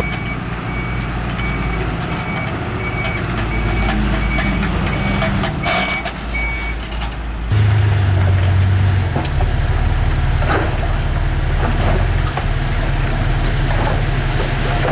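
Heavy diesel construction machinery running, with a reversing alarm beeping about twice a second. About seven seconds in the beeping stops and a louder, deeper engine sound takes over.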